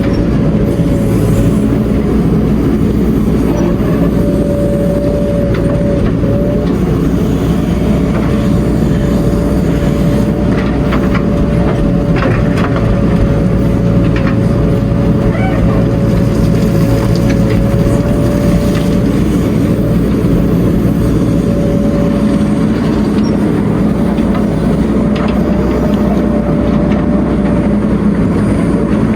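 Heavy construction machinery engine running steadily: a low, even rumble with a steady whine sitting above it.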